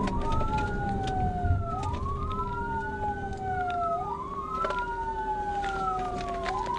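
Police car siren wailing, its pitch rising and then falling slowly about every two seconds, over a steady hum and road noise.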